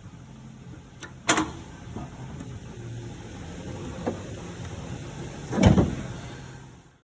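A steady low mechanical hum with three sharp knocks, the loudest a heavy thud near the end; the sound then cuts off suddenly.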